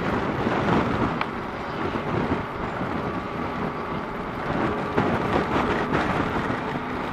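Heavy wind rumble buffeting the microphone of a motorcycle riding through rain, with the Kawasaki KLR650's engine and road noise beneath.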